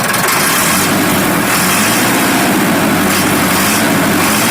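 Massey Ferguson 375 tractor's four-cylinder diesel engine idling steadily.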